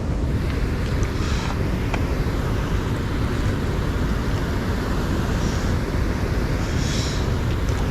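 Wind buffeting the microphone: a steady, loud low rumble that flutters without a break, with two faint brief hisses, one about a second in and one near the end.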